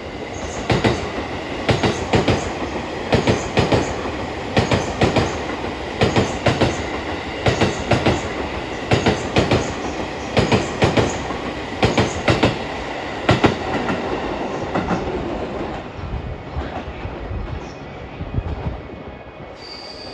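E257 series electric multiple unit passing, its wheels striking the rail joints in regular pairs, about one pair every second and a half, over steady running noise. The joint clatter thins out and fades about three quarters of the way through as the last cars go by.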